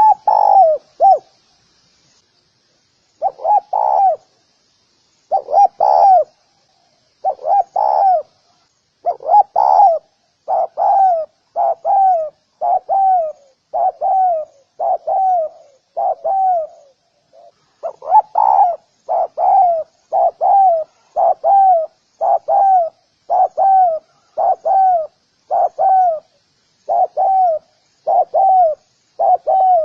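Spotted dove cooing: short notes, each falling in pitch. At first they come in pairs and threes with pauses, then as an even, steady run of about one and a half coos a second.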